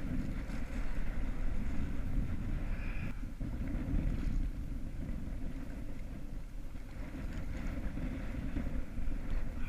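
Strong wind rumbling on the microphone, with water washing around the small sailing kayak's hull underneath.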